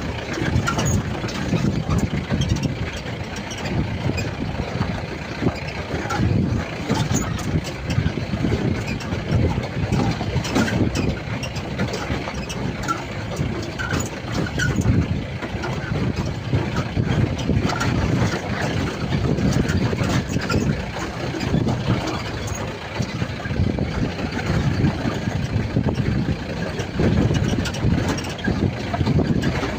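Off-road jeep driving over a rough track: an uneven rumble of engine and ride, with scattered knocks and rattles.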